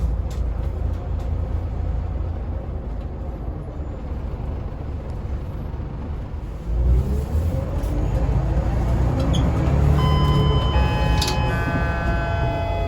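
Scania L94UA city bus's diesel engine running, then rising in pitch and level about seven seconds in as the bus accelerates. From about ten seconds in, several steady high-pitched tones sound over the engine.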